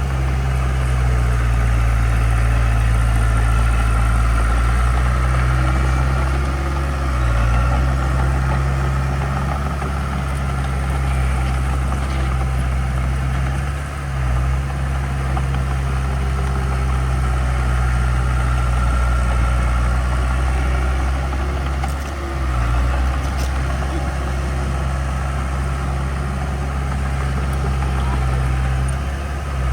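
Diesel engine of heavy earthmoving equipment running steadily with a low hum, briefly easing off a few times.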